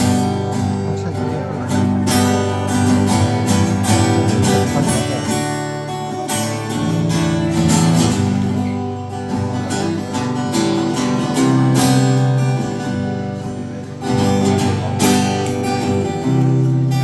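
Acoustic guitar strummed through a chord progression, the instrumental intro of a song played live.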